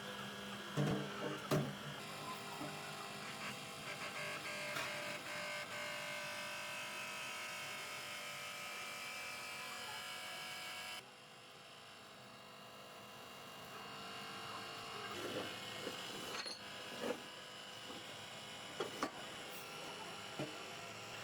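A small electric motor running steadily with a whine, as of a hand power tool. It cuts off suddenly about halfway through and then builds back up gradually, with a few short metal knocks.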